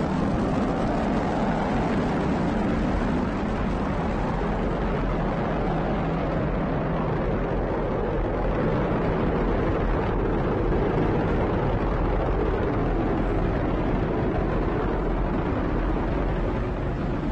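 Falcon 9 rocket's nine first-stage Merlin engines firing during ascent: a steady, rough rumble. Its hiss thins a little after a few seconds as the rocket climbs away.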